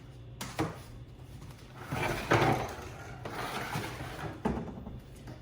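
A cardboard shipping box being handled and slid around on a surface: a few light knocks and a scraping rustle about two seconds in.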